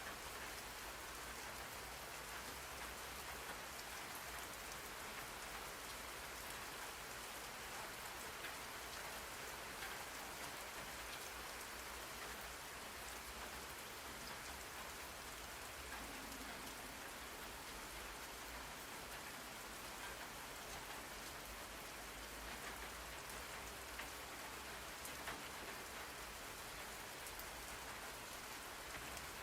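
Steady rain falling on a surface, an even hiss with scattered faint drop ticks, played as a white-noise study background.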